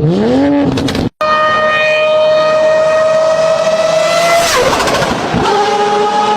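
Car engine and exhaust revving up and down, then, after an abrupt cut, the engine note climbing steadily under acceleration. About 4.5 seconds in there is a brief rush of noise and the pitch drops, after which the note runs on steadily.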